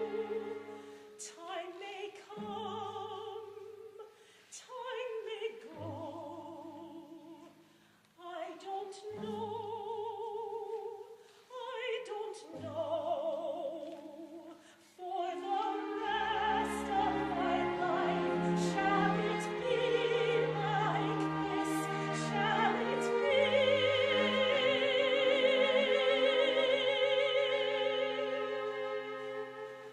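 Operatic singing with instrumental accompaniment. A voice sings phrases separated by short pauses, then about halfway through the music fills out and builds to a long held note with vibrato.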